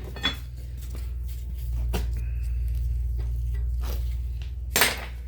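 A few sharp metal clanks and knocks, the loudest near the end, from hand tools working a stuck part of a Subaru Impreza's rear brake caliper bracket to free it. A steady low hum sits underneath.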